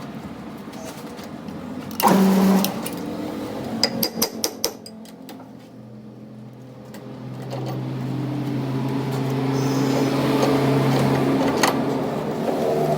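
A machine motor hums steadily, with a loud clank about two seconds in and a quick run of sharp clicks around four seconds; the hum drops away briefly, then builds back up and runs steadily.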